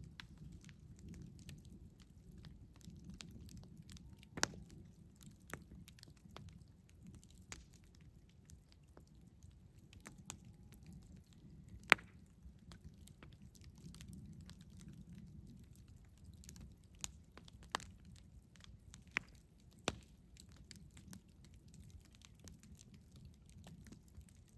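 Campfire burning: wood snapping and popping at irregular intervals over a low steady rumble, with one sharp, loud pop about halfway through.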